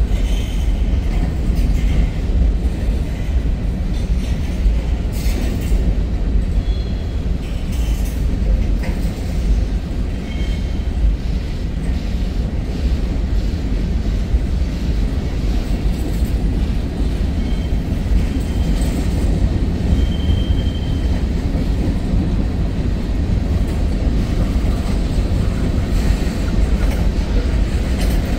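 Freight cars of a Norfolk Southern mixed-freight train rolling past: a steady heavy rumble of steel wheels on rail, with brief high wheel squeals several times.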